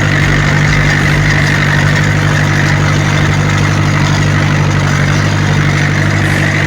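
Ursus C-360 tractor's four-cylinder diesel engine running at a steady speed.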